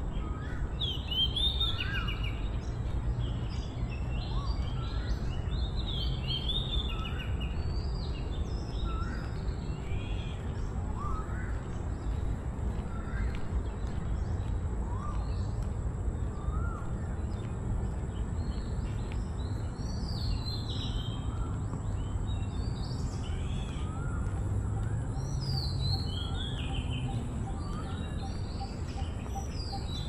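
Several birds chirping and calling in short, repeated phrases, some of them quick rising notes, over a steady low background rumble.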